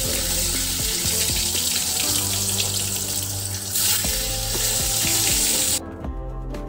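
Eggplant slices sizzling as they fry in hot oil in a steel kadhai, over background music. The sizzle cuts off abruptly about six seconds in, leaving only the music.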